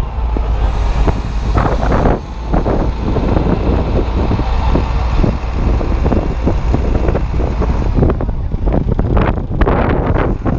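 Strong gusty wind buffeting the microphone: a loud, continuous low rumble that flutters unevenly.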